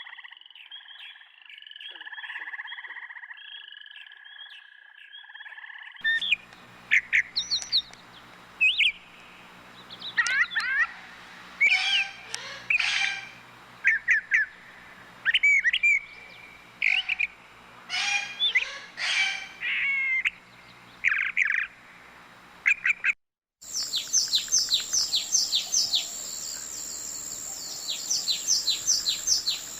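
Bird calls from three different recordings joined with abrupt cuts. First comes a run of calls, then loud separate calls that glide up and down in pitch. After a brief silence near the end comes fast, high-pitched chirping.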